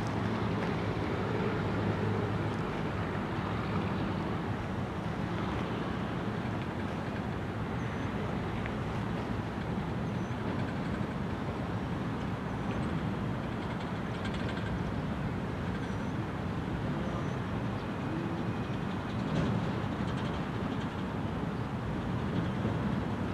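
Freight cars carrying trash containers rolling past at a steady speed, steel wheels rumbling on the rails.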